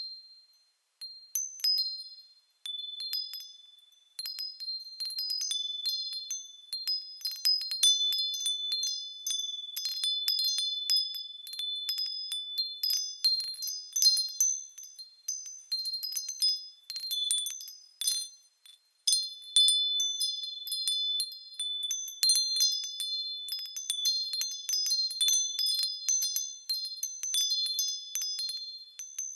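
Small metal bells swaying and striking, ringing with several overlapping high-pitched tones in an irregular, chime-like pattern, with short lulls near the start and about two-thirds of the way through.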